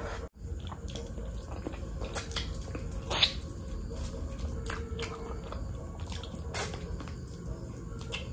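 Close-miked wet mouth sounds of chewing mutton curry and rice: irregular sticky squelches, smacks and clicks, with one sharper click about three seconds in.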